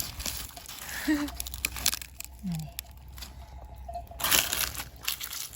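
Rustling and crunching of dry lotus plants and debris as they are pushed through and handled, with a few brief low calls about one and two and a half seconds in.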